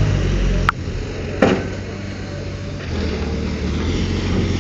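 Heavy earthmoving machine's engine running with a steady low rumble, broken by two sharp knocks, one under a second in and one about a second and a half in.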